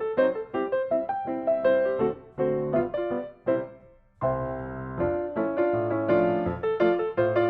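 Background piano music: a melody of struck notes over low chords, pausing briefly about halfway before a new phrase starts.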